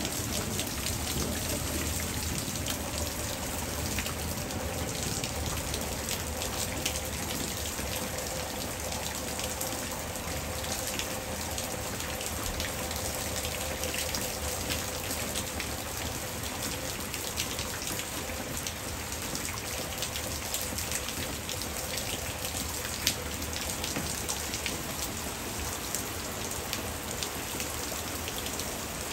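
Hard rain falling steadily: a dense hiss with many separate drops striking close by, and one sharper tick about two-thirds of the way through.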